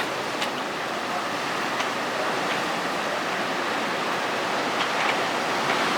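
Heavy surf raised by a typhoon swell: a steady rush of breaking waves and washing water.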